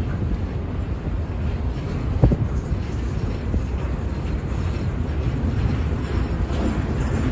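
A freight train running past with a steady low rumble and wind buffeting the microphone, and a single knock about two seconds in.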